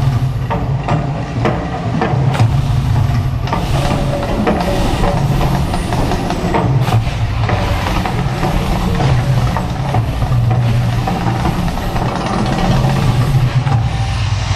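Mirage volcano show erupting: a loud, continuous low rumble broken by irregular bursts.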